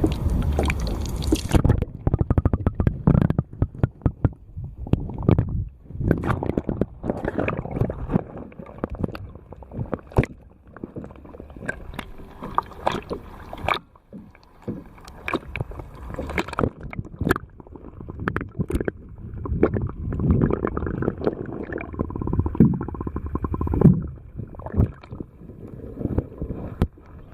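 Muffled underwater sound from a microphone dipped below the sea surface about two seconds in: low sloshing and gurgling water with many scattered clicks and knocks.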